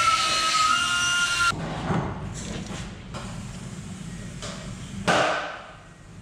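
A steady high whine stops about one and a half seconds in, followed by several clanks and knocks of metal tools and engine parts being handled, with one louder thud near the end.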